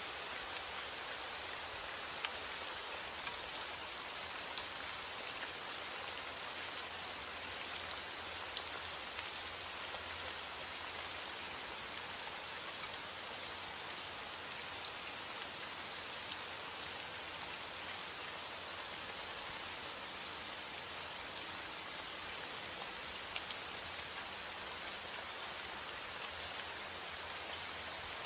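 Steady heavy rain falling, an even hiss with many small drop ticks.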